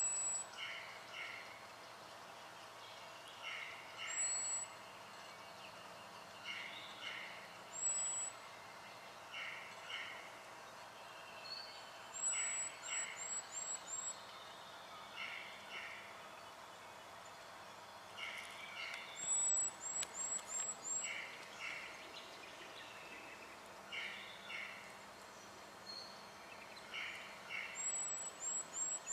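Spotted quail-thrush calling: very high, thin notes, singly or in quick runs of four or five, among paired lower whistled notes repeated every couple of seconds.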